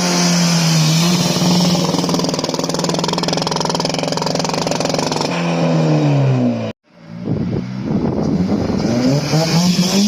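Car engine held at high revs for about five seconds, then dropping off in pitch before the sound cuts out abruptly. A car engine then picks up again, its revs rising and holding.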